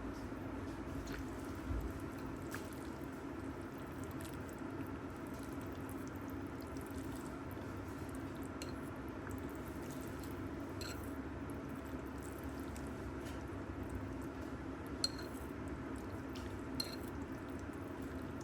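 Steady background noise with a constant low hum, scattered faint ticks and taps, and two sharper clicks near the end.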